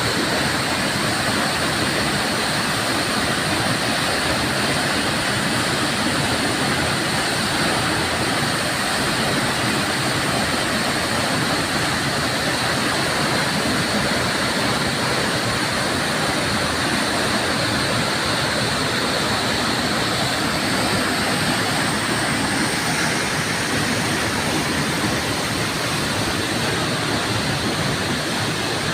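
Waterfall pouring steadily: a constant loud rush of falling water.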